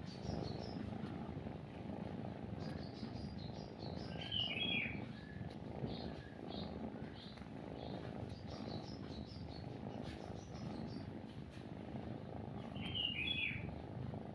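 A cat purring in a steady low rumble while birds chirp in short high notes, with one louder call sounding twice, about four seconds in and again near the end.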